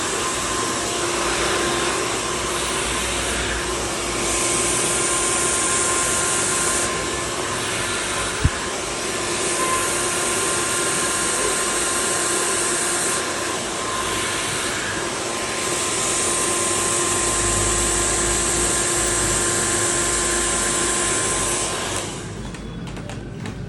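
Hand-held hair dryer running steadily with a whine over its rushing air, the hiss rising and falling in level several times. A single sharp click comes about eight seconds in, and the dryer stops near the end.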